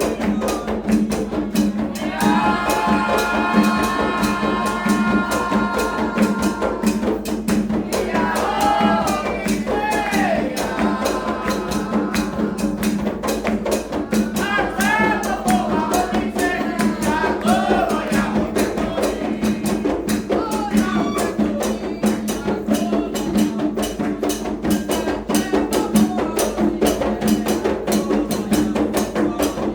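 Candomblé ritual chant: a voice singing songs for the orixá over a fast, steady beat of hand drums and rattling percussion.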